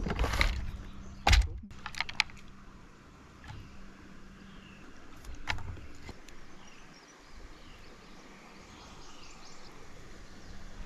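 A few sharp knocks in the first couple of seconds and one more about midway, over a quiet creekside background with faint bird chirps, including a quick run of high notes near the end.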